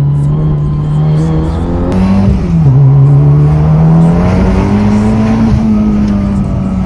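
Built 10th-generation Honda Civic Si race car's turbocharged four-cylinder engine pulling under throttle, heard from inside the car: the engine note climbs, drops sharply at a gear change about two and a half seconds in, then climbs again and eases off near the end.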